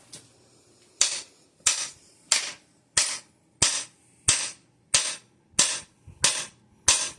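Hammer blows on a cam bearing driver, driving a cam bearing into its bore in a Ford 460 engine block. About ten even, sharp metal strikes come roughly three every two seconds, starting about a second in, each ringing briefly.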